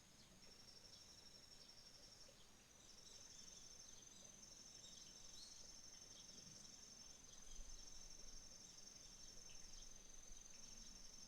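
Faint chorus of autumn insects trilling: two high, finely pulsed trills at slightly different pitches run in long stretches broken by short gaps, overlapping each other.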